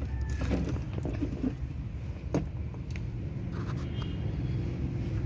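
Steady low rumble with a few light metallic clicks and clinks.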